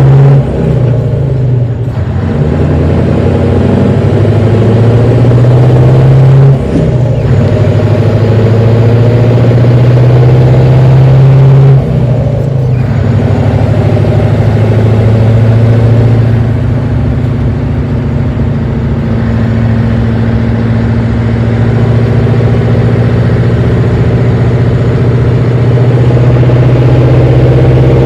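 Scania 142 truck's V8 diesel engine pulling hard under way, working up through the gears: the engine note climbs and then drops at each shift, about every four to five seconds.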